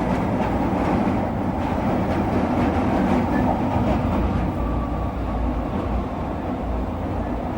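Merseyrail Class 508 electric multiple unit running on the line, heard from inside the driver's cab: a steady rumble of wheels on rail and traction noise.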